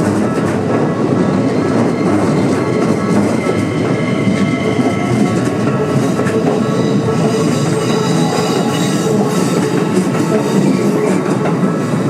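Keikyu Line train passing over a level crossing, its wheels rumbling and clattering on the rails, with a whine that rises in pitch a few seconds in. Steady ringing tones run through it, the crossing's warning bell.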